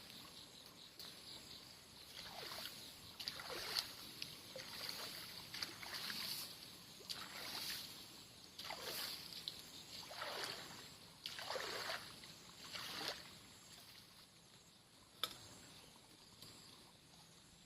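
Someone wading through knee-deep water in a flooded rice paddy, each step a swishing slosh, about one a second; the steps stop after about thirteen seconds, and a single sharp click follows near the end.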